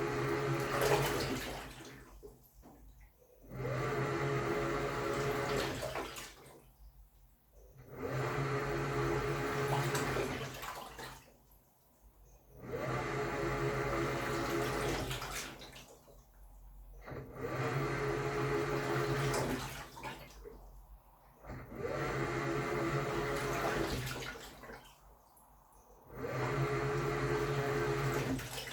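Samsung Wobble 14 kg top-loading washing machine's pulsator agitating a comforter in water during the wash: a motor hum and sloshing water in bursts of about two and a half seconds, each followed by a short pause, roughly every four seconds.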